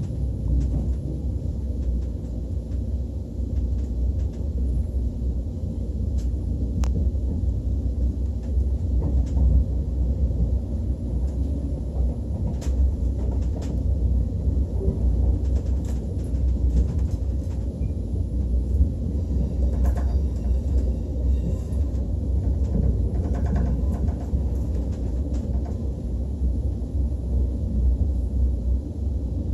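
Steady low rumble of a KTX train heard from inside the passenger carriage, with occasional light clicks from the wheels on the track.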